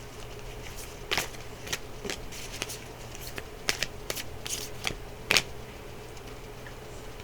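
Deck of tarot or oracle cards being shuffled and handled, a series of short crisp card snaps and rustles clustered in the middle few seconds, over a faint steady hum.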